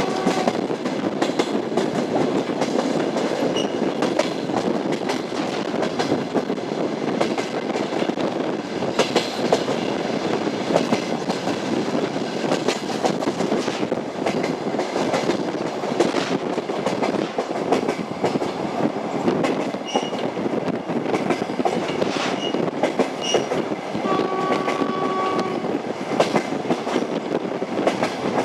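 Train wheels clattering over the rail joints with a steady running rumble, a railway carriage in motion. Near the end a train horn sounds one steady chord-like note for about two seconds.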